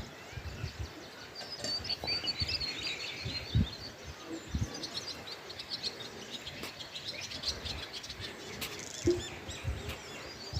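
Birds chirping in quick, high twittering runs, with scattered low thumps, the loudest about three and a half seconds in and again about nine seconds in.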